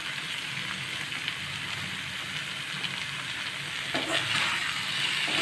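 Ridge gourd pieces sizzling in hot oil in a metal kadai, a steady hiss. About four seconds in, a spatula starts stirring, scraping against the pan.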